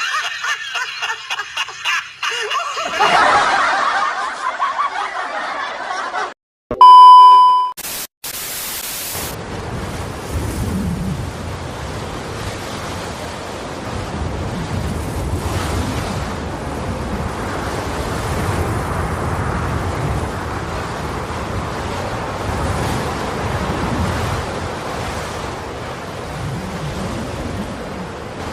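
Wind rushing over the microphone with the sea and boat noise underneath, a steady low rumble. It is preceded by a few seconds of background music and, about seven seconds in, a very loud steady beep followed by a brief burst of hiss.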